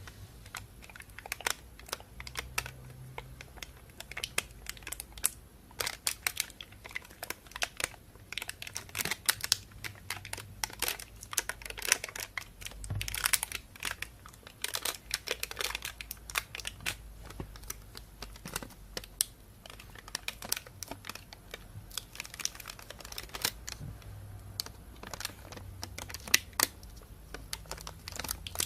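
Plastic bag crinkling and rustling close to the microphone, in many irregular sharp crackles.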